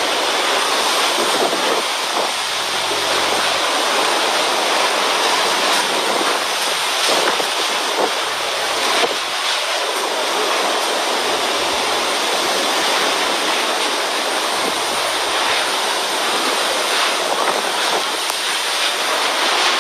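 Typhoon wind and storm-surge waves making a loud, steady rushing noise that never lets up.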